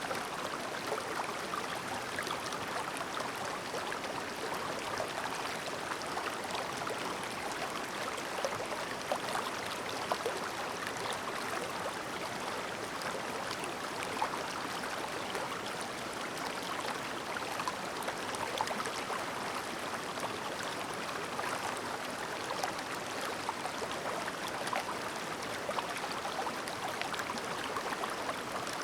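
A shallow, clear mountain stream babbling steadily over stones, a constant murmur flecked with small splashes and gurgles.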